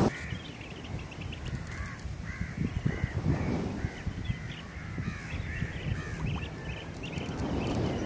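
Birds calling over and over, short arching calls about two a second, over a low rumble.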